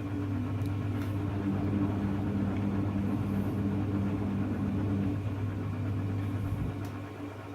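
Hoover Electra front-loading washing machine running mid-cycle: a steady low motor hum with a faint pulsing whine that stops about five seconds in.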